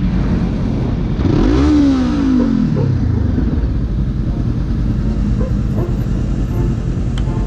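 Motorcycle engine running over a steady low rumble of road noise; about a second and a half in, an engine note swells and then drops in pitch as a vehicle goes by.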